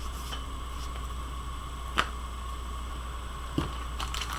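Steady low background hum from the boosted webcam microphone, with two sharp clicks about a second and a half apart.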